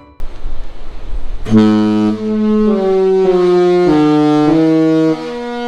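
The Disney Wonder's ship horn sounding a melody of long, loud notes at changing pitches, with wind hiss on the microphone before it starts about a second and a half in.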